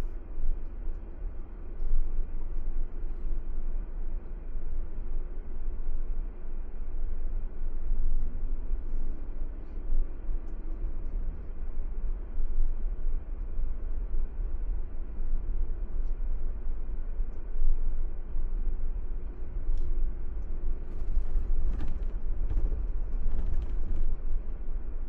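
Car driving along a paved road: a steady low rumble of engine and tyres, with a few faint ticks near the end.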